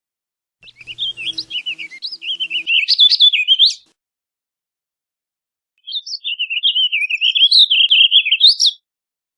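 Warbling vireo singing: two rambling, warbled songs of about three seconds each, the second starting about six seconds in, each climbing higher toward its end.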